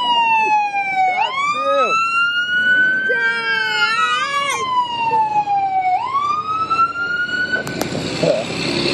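Emergency vehicle siren wailing, its pitch sweeping slowly down and up again twice, with a second, faster warbling siren tone joining briefly midway. The siren cuts off near the end, leaving the noise of vehicle engines.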